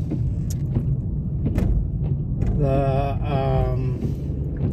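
Car cabin noise while driving: a steady low engine and tyre rumble, with a few short clicks and a brief stretch of voice about halfway through.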